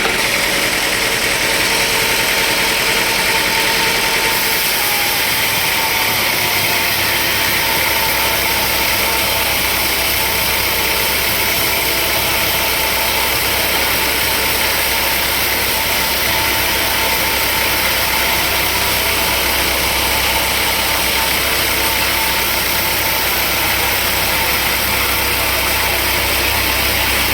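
Sawmill machinery running steadily: a loud, even mechanical noise with a constant low hum underneath.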